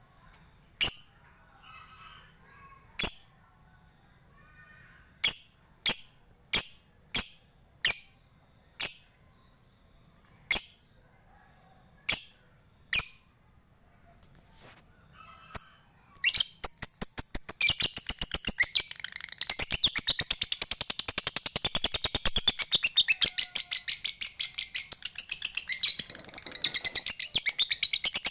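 Lovebird calling: about a dozen single sharp, high chirps spaced a second or so apart, then a long, fast chattering trill of rapidly repeated notes (the 'ngekek') that runs about ten seconds, breaks briefly, and starts again near the end.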